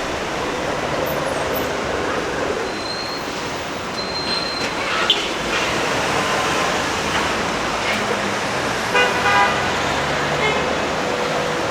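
Steady city street traffic, with a short car horn toot about nine seconds in.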